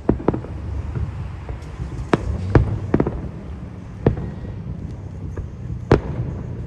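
Fireworks shells bursting overhead: a string of sharp bangs, roughly one a second, over a steady low rumble.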